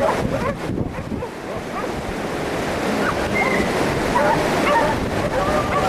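Steady rushing wind noise on the microphone, with a few short, high cries over it, the first about three seconds in and more near the end.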